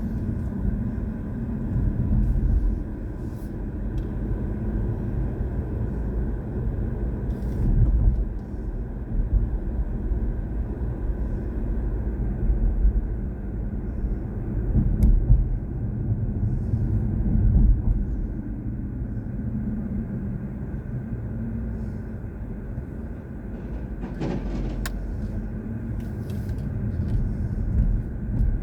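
BMW i4 M50 electric car being driven: a steady low tyre and road rumble with no engine note, swelling louder several times.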